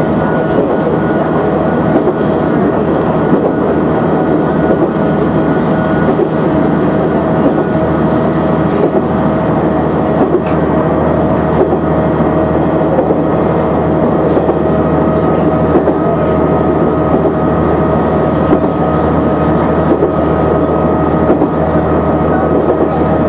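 KiHa 100 diesel railcar running along the line: a steady drone of engine and wheels on rail with a constant hum, and occasional faint clicks from the wheels over the track.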